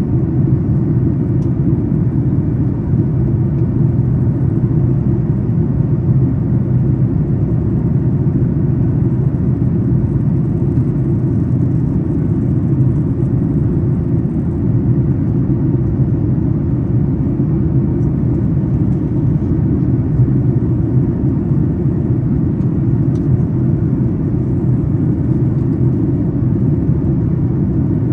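Steady cabin rumble of a Boeing 737 MAX 8 airliner in the climb, the roar of engine and airflow heard from an economy seat, with a faint steady hum in the low rumble.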